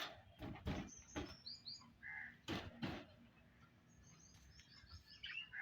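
Pet parrot giving faint short chirps and a few high little squeaks, mixed with scattered clicks and knocks.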